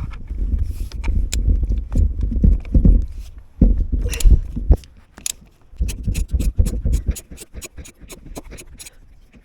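Knocks and low rumbling from tools being handled, then from about halfway a quick run of sharp clicks, several a second, typical of a socket ratchet undoing the oil filter housing.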